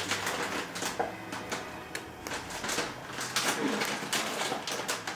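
Egg cooking in a frying pan on the stove, sizzling with dense irregular crackles, over a steady low hum.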